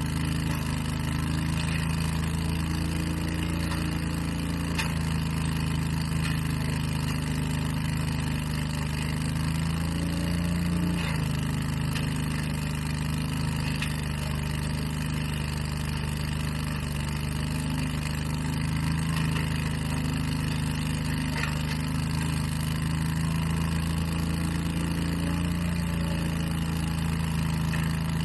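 Engine of large lawn and leaf-cleanup equipment running steadily at working speed, its hum shifting slightly in pitch now and then.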